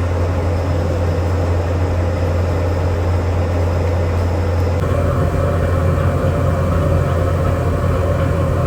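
Steady low drone of heavy machinery running, its sound changing abruptly about five seconds in.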